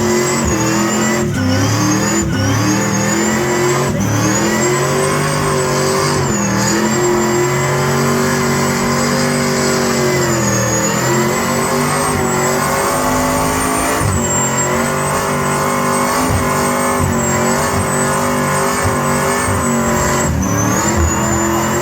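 Car engine held at high revs through a long burnout, the pitch wavering slightly up and down without letting off, with a thin high whine running over it.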